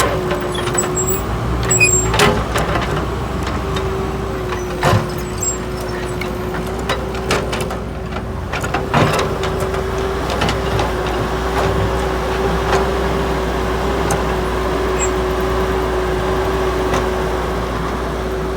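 Heavy vehicle engine running steadily with a constant whine, with scattered short knocks and clanks, most of them in the first half.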